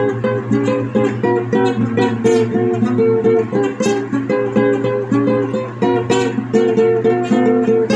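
Music played on a plucked string instrument: a quick melodic line of short notes, several a second, over a steady held low note.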